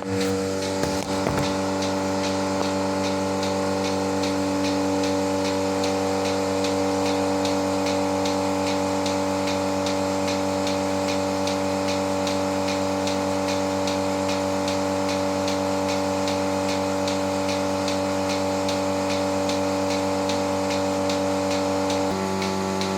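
Milking machine running: a steady motor hum from the vacuum pump with regular rapid pulsator ticking. The hum shifts in pitch slightly near the end.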